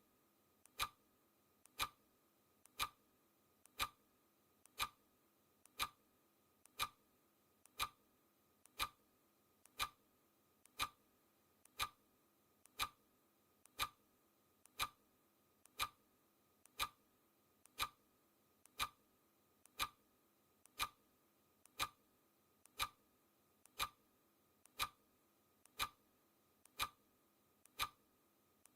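Clock-style ticking sound effect of a countdown timer: one short, sharp tick each second, perfectly even.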